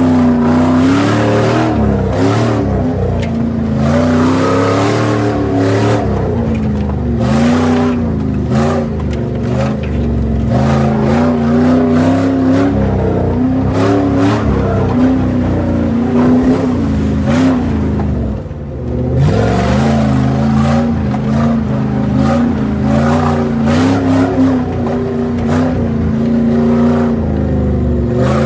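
Jeep Grand Cherokee's 4.7-litre V8 revving up and down under load in low-range off-road driving, heard from inside the stripped cabin. It drops off briefly about two-thirds of the way through, then climbs again, with knocks and thumps from the body over rough ground.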